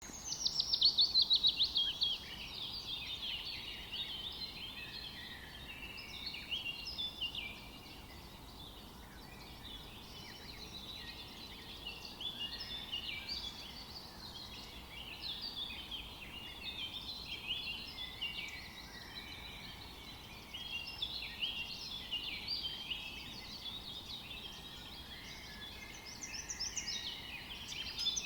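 A chorus of many small birds chirping and twittering, dense and continuous, with a louder burst of quick falling notes in the first two seconds.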